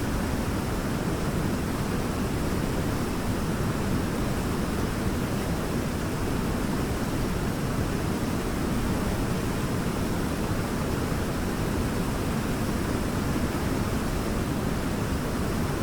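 Waterfall: falling water rushing steadily, a dense even noise heaviest in the low range.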